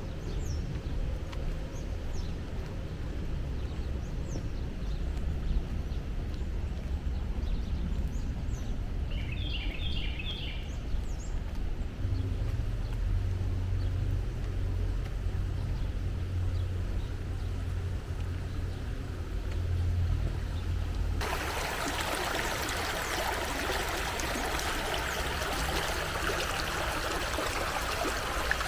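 Woodland ambience: a steady low rumble with scattered bird chirps, including a short run of quick notes about a third of the way in. About three-quarters of the way through, the rushing of a brook cuts in abruptly and carries on.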